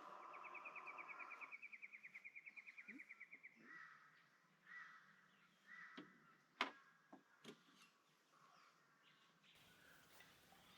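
Faint birdsong: a fast trill of slightly falling notes lasting about three seconds, followed by several short, separate calls. A few sharp clicks come in the middle, one of them the loudest sound.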